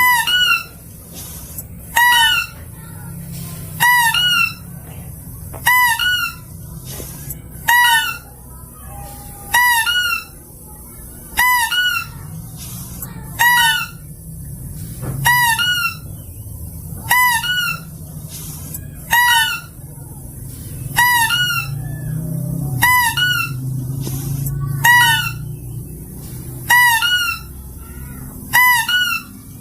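Lure recording of a mouse-deer (kancil) call: a short, high, hooked cry repeated evenly about every two seconds, over a low rumbling background.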